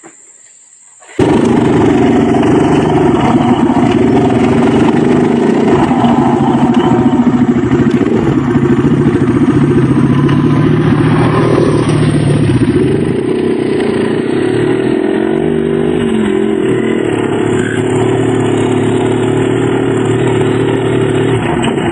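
Dirt bike engine running loud and steady, cutting in suddenly about a second in, with small rises and falls in pitch.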